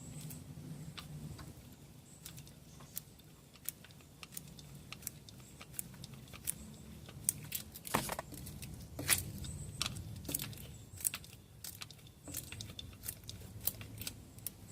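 Irregular light metallic clicks and clinks of metal parts or tools being handled, the loudest about eight and nine seconds in, over a steady low hum.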